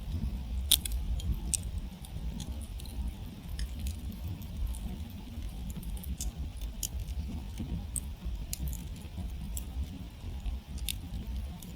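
Wood campfire burning down, crackling with irregular sharp pops over a steady low rumble; one louder pop comes just under a second in.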